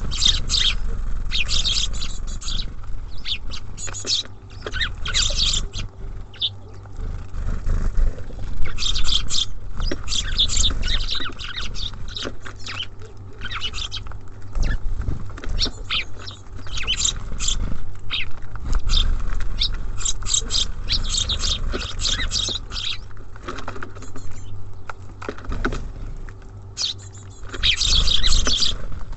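Small songbirds chirping and twittering at a bird feeder: many short, high calls in quick clusters throughout, over a steady low rumble.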